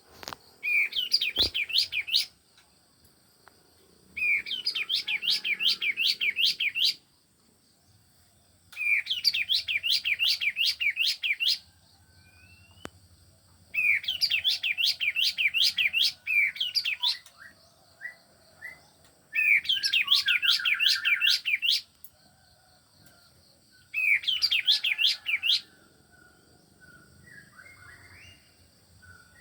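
A male songbird singing in repeated bursts: six fast, trilling phrases of rapid high notes, each about two to three seconds long, with short pauses and a few single chirps between them.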